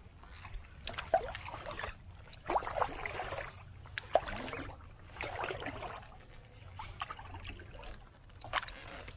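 Paddle strokes in creek water, coming as about six splashy dips and drips with a few sharp knocks.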